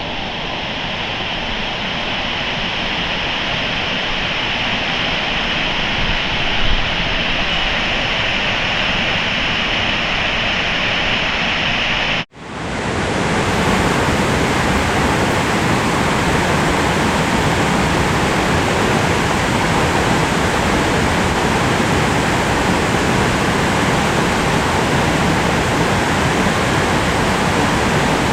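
Rushing water of a fast mountain stream running high, a steady loud rush. About twelve seconds in it cuts out for an instant and returns fuller and brighter.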